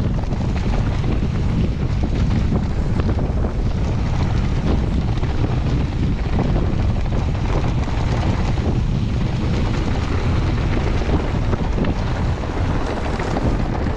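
Wind buffeting an action camera's microphone while a mountain bike runs fast down a trail, with steady tyre rumble and many small knocks and rattles from the bike over rough ground.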